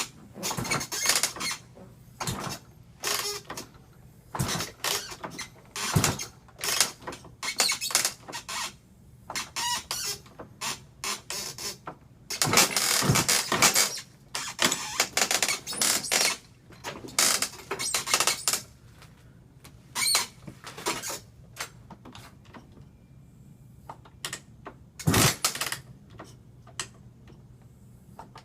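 Irregular metallic clunks, clicks and rattles from handling a dirt bike, coming one after another with short pauses. The engine is not running.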